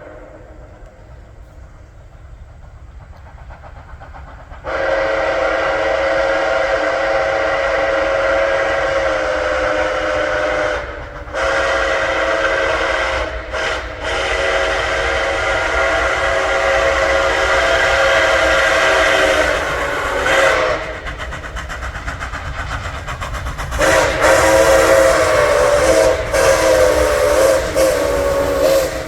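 Steam whistle of Nickel Plate Road 765, a 2-8-4 Berkshire steam locomotive, sounding a chord in long drawn-out blasts. It comes in about five seconds in, breaks off briefly a few times, drops quieter for a few seconds past the middle, then sounds loud again near the end.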